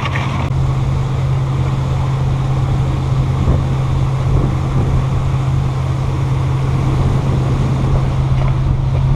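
A boat's twin inboard engines running steadily under way, a constant low drone, with wind buffeting the microphone and water rushing past the hull.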